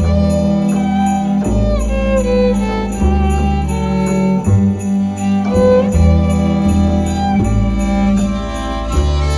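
Small string ensemble playing a slow seasonal tune in sustained bowed notes over a deep bass line that changes note every second or two, with a steady light ticking pulse high above.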